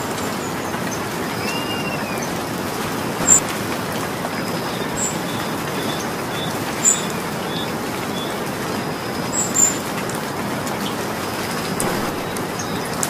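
Steady rain falling, with three sharp, louder ticks of drops striking something hard. Faint bird chirps sound behind the rain.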